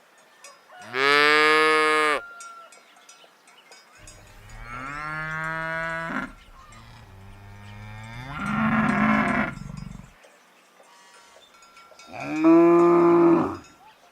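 Cows mooing: four long moos a couple of seconds apart.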